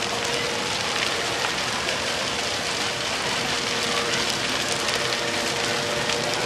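Large bonfire burning fiercely, a dense, steady crackle much like heavy rain.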